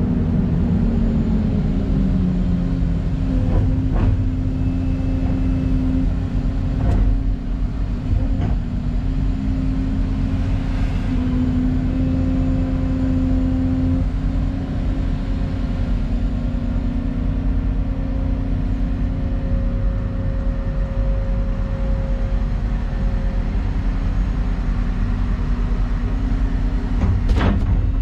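Excavator's diesel engine running steadily under load with a droning hydraulic note, its pitch dropping in the first two seconds and then holding, broken by a few sharp metallic knocks, the last near the end.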